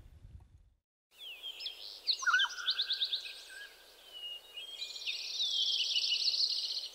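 Songbirds singing: a string of quick chirps and whistles, with a fast trill about five seconds in. A low rumble fades out just before the birdsong starts.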